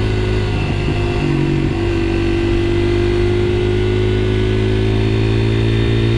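Honda XR80R dirt bike's small single-cylinder four-stroke engine running under way. The engine note changes briefly about a second in, then holds steady.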